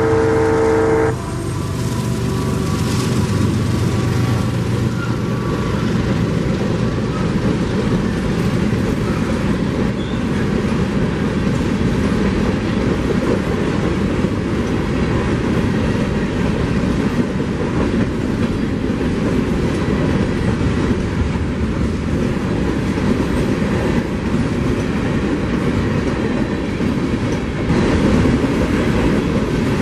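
Freight train horn sounding and cutting off about a second in, followed by the steady rumble and clatter of BNSF covered hopper cars rolling past close by on the rails.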